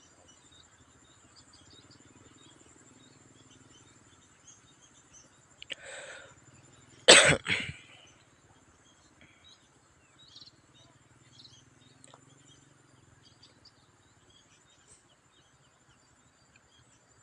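Steady high drone of insects with scattered faint bird chirps. About seven seconds in, a person close to the microphone gives a short, loud cough.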